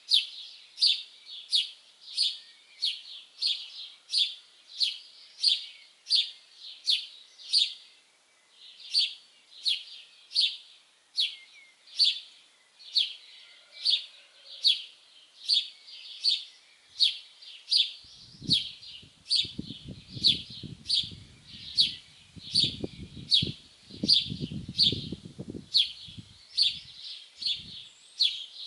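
A songbird repeating one short, sharp, high chirp about twice a second, very evenly, with a brief pause around eight seconds in. In the second half, low rumbling thuds come and go under the chirps.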